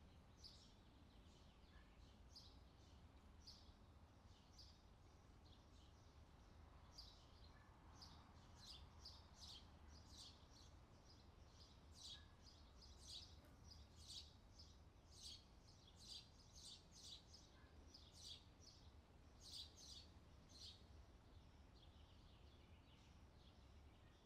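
Faint outdoor summer ambience: birds chirping in many short, high calls, busiest through the middle, over a steady low background hum.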